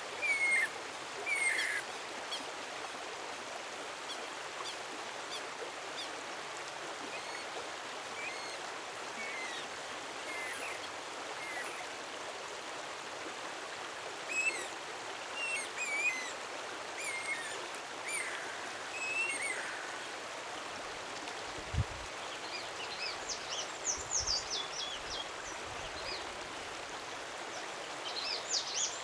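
Songbird of an unidentified native Brazilian species singing short whistled phrases over a steady rushing background, like a stream. Near the end it sings a run of quick, high, falling notes. A low thump comes briefly a little before that.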